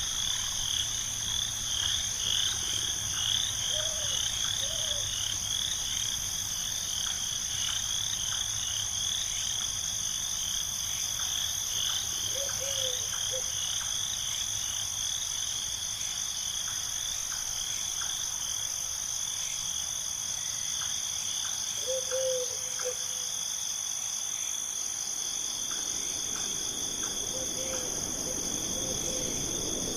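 Frogs calling in a fast, repeated chirping chorus over a steady high insect drone, with a few short, lower croaks now and then. A soft hiss comes in near the end.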